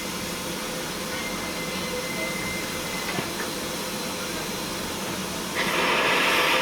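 Steam locomotive hissing steadily, with a much louder hiss of steam starting suddenly near the end.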